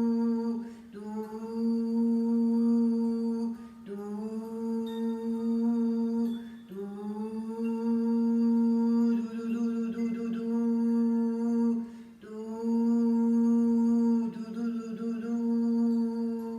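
A voice humming long held notes on one steady pitch as a healing-sound toning exercise, each note lasting a few seconds, with short pauses for breath between them.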